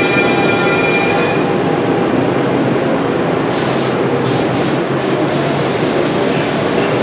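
NJ Transit Arrow III electric multiple-unit cars rolling slowly past along the platform, their wheels and running gear giving a steady rumble. A high squeal of several tones stops about a second in, and a few short hisses come through the rumble around the middle.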